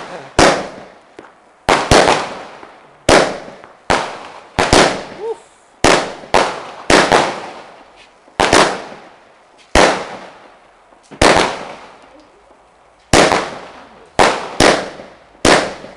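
Fireworks going off in a rapid run of loud bangs, about one a second, each dying away in an echo, with a short pause a little after the middle.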